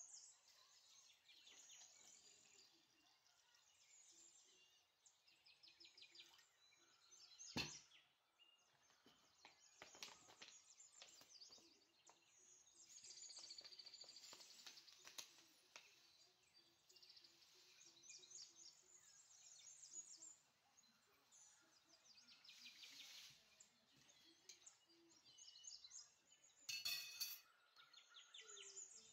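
Faint bird chirping, with one sharp knock about eight seconds in.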